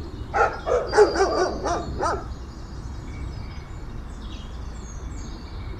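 Dog barking: a quick run of about eight short barks over the first two seconds, then it stops.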